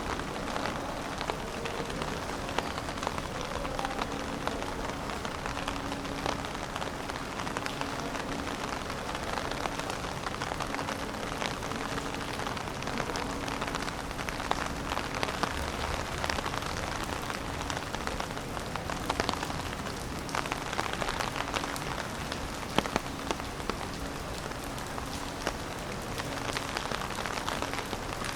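Steady rain falling, with many individual drops ticking sharply close by. A faint low tone comes and goes underneath.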